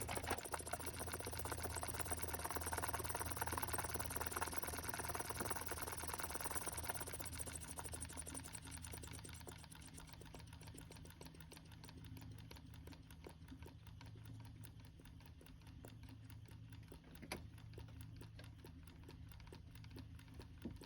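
Homemade two-solenoid, four-piston solenoid engine running on 12 volts: a fast, even mechanical clicking over a low electrical hum. The clicking is louder for the first several seconds and softens from about eight seconds in, with one sharper click near the end.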